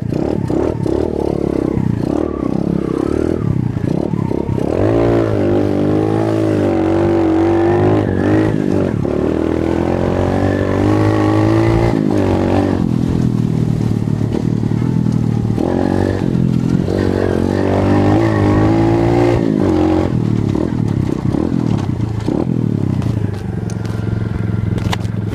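125cc CRZ dirt bike engine running and revving, its pitch climbing and dropping again several times with the throttle.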